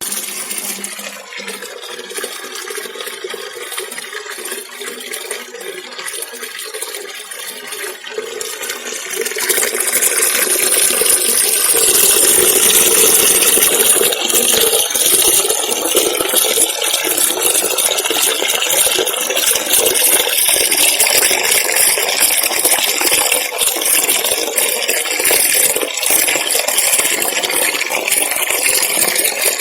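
Waterfall: a steady rush of falling water that grows louder about ten seconds in.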